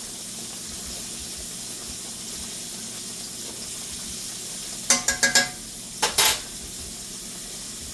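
Food frying in a pan, a steady sizzle, with a quick run of metal clinks from a utensil against the pan about five seconds in and two more strikes about a second later.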